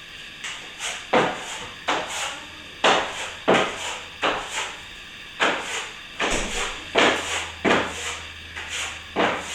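Plastering trowel scraping across wet plaster in a quick, uneven run of short strokes, about two a second. It is spreading and smoothing a coat over the repaired crack.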